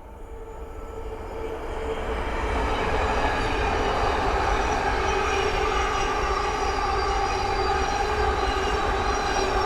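Thameslink Class 700 electric multiple unit coming up and passing at line speed, growing louder over the first few seconds and then holding loud. Its steady whine of several tones sits over the wheel and rail noise.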